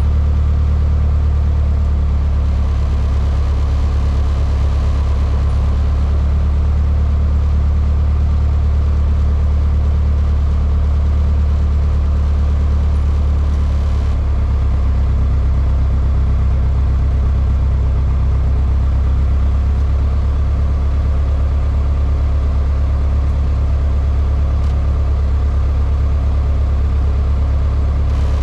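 Cessna 152's Lycoming O-235 four-cylinder engine and propeller running steadily, a constant low drone heard inside the cabin, with a slight change in its tone about halfway through.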